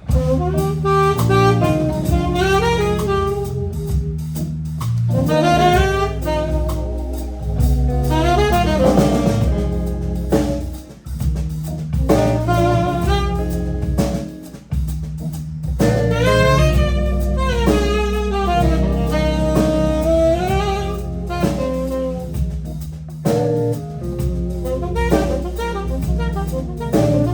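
Live jazz-blues band playing an instrumental passage: a saxophone carries winding melodic lines over organ bass and chords and a drum kit.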